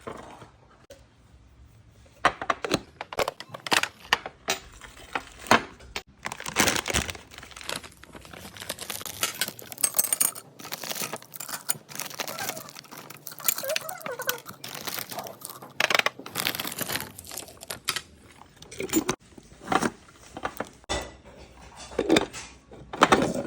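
Plastic snack packaging crinkling and rustling in the hands as it is handled and opened, in irregular crackles starting about two seconds in.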